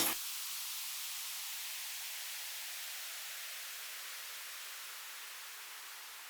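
Steady white-noise hiss left after the drums cut off at the end of an electronic track, fading slowly.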